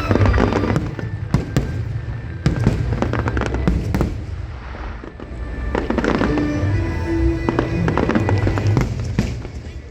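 Aerial fireworks bursting in two dense volleys of bangs and crackles, the second starting about six seconds in, with music playing underneath.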